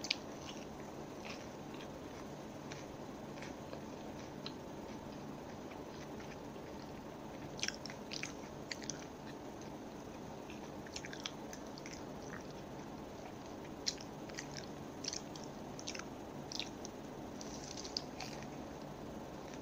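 Close-miked chewing and biting of a sauce-coated crispy chicken nugget: scattered crunches and wet mouth clicks, sparse at first and coming thicker from about halfway in, over a steady low hiss.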